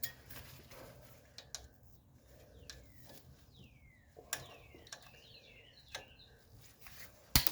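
A few sharp clicks, the loudest near the end, as the excess legs of a steel cotter pin are snipped off with cutters. A bird calls in short descending chirps in the background.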